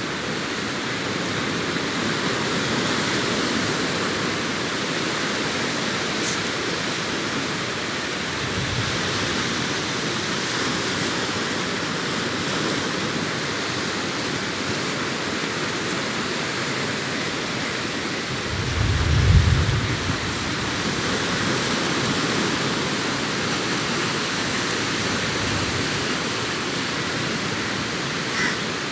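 Sea surf washing onto the beach, a steady rushing noise that swells and eases, with a louder low rumble about two-thirds of the way through.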